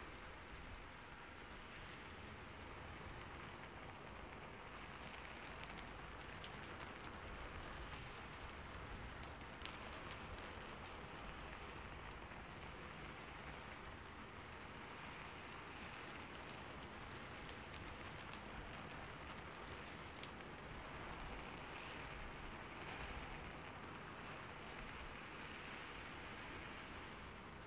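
Recorded rain falling on a rooftop, a faint steady patter with scattered sharper drop ticks.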